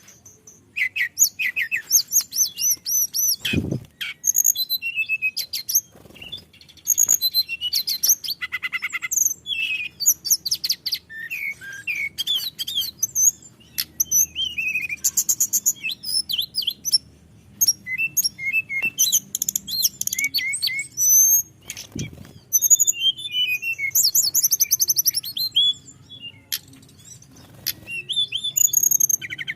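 Hill blue flycatcher (tledekan gunung) singing without pause: a fast, rolling run of varied high whistles, trills and chirps, phrase after phrase. Two short low thumps come through, one a few seconds in and one past the middle.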